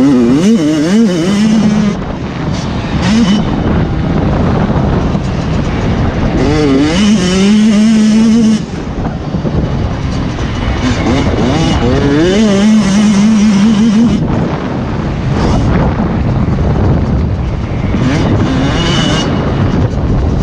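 Motocross bikes riding a dirt track, engines revving up and down through the gears over and over, with a few spells of throttle held steady.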